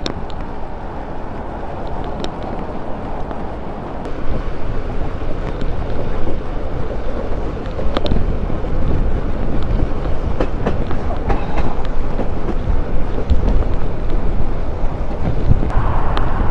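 Bicycle riding along a rough park path: steady rumble of the tyres and rattling knocks from the bike over bumps, with wind buffeting the microphone. It gets louder about four seconds in.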